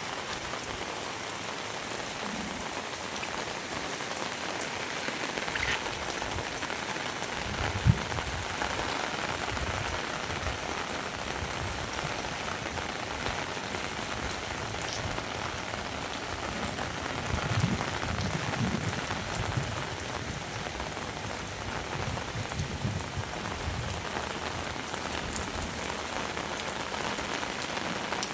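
Heavy rain falling steadily, an even dense patter. There is one sharp knock about eight seconds in and a few low thuds a little past the middle.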